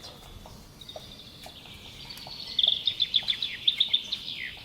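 A songbird singing a fast, high trill of rapidly repeated chirps that starts about two seconds in and ends with a short downward slur.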